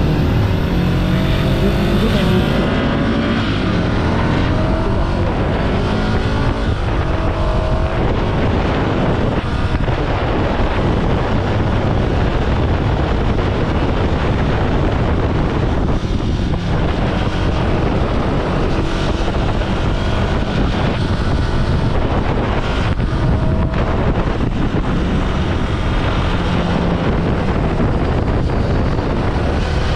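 Ducati Scrambler Sixty2's air-cooled L-twin engine under way, rising in pitch through several upshifts over the first several seconds, then running steadily at cruising speed. Wind rushes over the microphone throughout.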